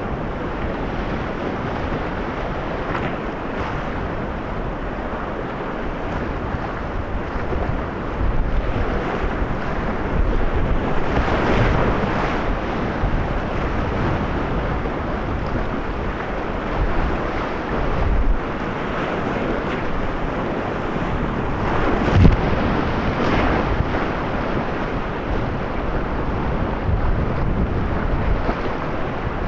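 Whitewater rapids rushing steadily, with wind buffeting the microphone. Louder surges of water come about a third of the way in, and a sharp knock comes about three-quarters of the way through.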